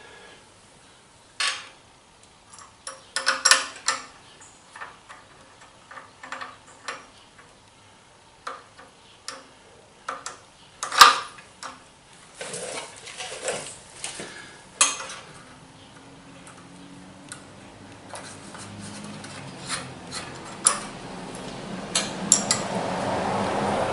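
Metal parts and hand tools clinking and knocking against one another at irregular intervals while brackets are fitted to a milling machine; the sharpest knock comes about eleven seconds in. Over the last several seconds a steady noise with a low hum rises underneath.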